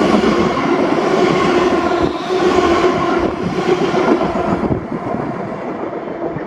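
ScotRail passenger train passing through the station at speed, loud with a steady running tone, then dying away after about five seconds as it goes off.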